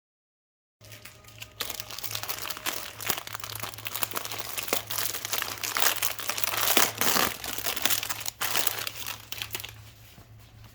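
Plastic packaging crinkling and rustling as it is handled and unwrapped by hand, dense and irregular. It starts about a second in and eases off near the end.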